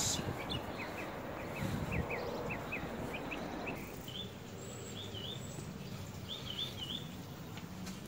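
Small birds chirping: a quick run of short chirps, then a few wavering whistled notes, over a steady outdoor hiss that drops a little about halfway through.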